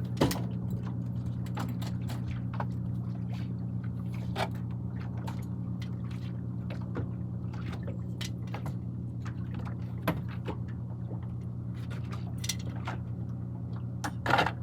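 Small fishing boat's engine idling steadily with a low, even hum, with a few sharp clicks and knocks on top, the strongest just after the start, about ten seconds in and near the end.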